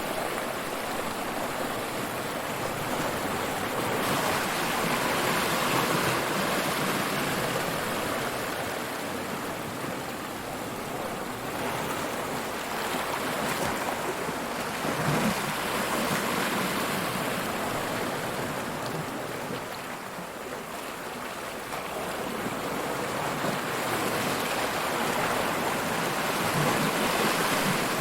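Ocean surf: waves breaking and washing up the shore as a continuous rush that swells louder three times and eases in between.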